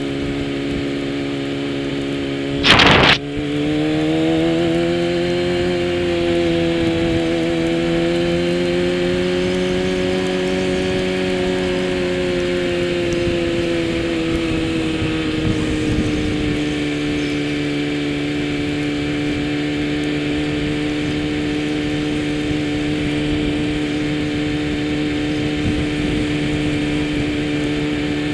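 Kawasaki ZX-10 superbike engine running at a fairly steady, moderate speed, its pitch rising and falling gently. About three seconds in there is a brief loud thump.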